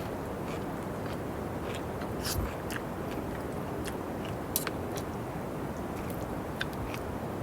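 A person eating: scattered, irregular bites and crunches over a steady hiss.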